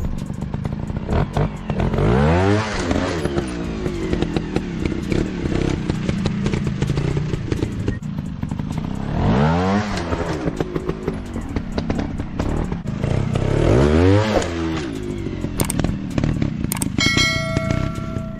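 Dirt-bike engine sound revving hard three times, its pitch climbing sharply and falling back each time over a steady running engine. A brief bell-like ringing tone sounds near the end.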